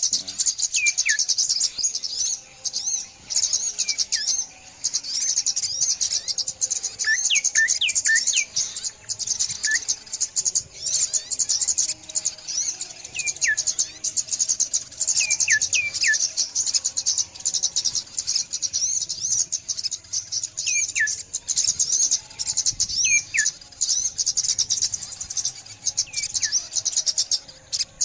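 A chorus of many small birds, sunbirds among them, chirping rapidly and constantly in high, thin notes. Clear whistled notes that slide downward come every second or two over the chirping.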